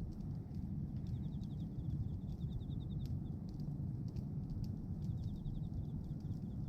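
Outdoor wood fire of pruned branches burning, with a steady low rumble and scattered sharp crackles. A rapid high-pitched ticking trill comes in short runs three times.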